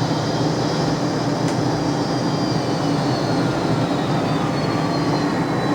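McDonnell Douglas DC-10 jet engines running at high power: a steady, dense rush of noise with thin high whining tones that slowly fall in pitch.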